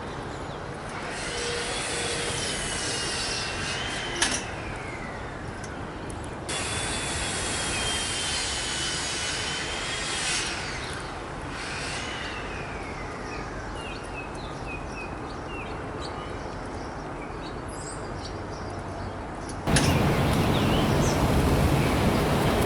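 Three long whistled bird calls, each held steady with a slight waver before gliding downward, over a steady background hiss. Near the end the sound switches abruptly to louder wind noise on the microphone.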